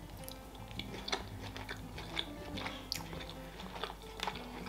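A person chewing and biting food with the mouth close to the microphone, with small wet mouth clicks scattered irregularly.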